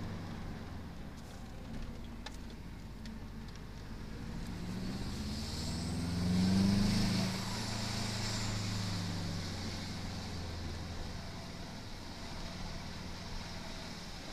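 1998 Subaru Impreza WRX STi's turbocharged flat-four engine heard from inside the cabin while driving up mountain hairpins. The revs climb to a peak about halfway through and then ease off again.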